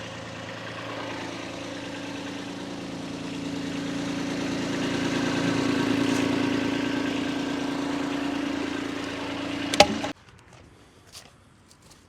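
An engine running steadily, its hum growing louder over the first few seconds and then holding. It stops abruptly about ten seconds in, just after a sharp click, leaving only faint ticks.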